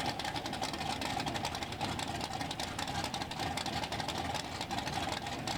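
Drag-racing car engines idling steadily at the starting line before staging.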